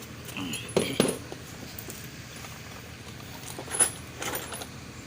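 Metal hand tools clinking and knocking a few times, in two small clusters about a second in and near the end.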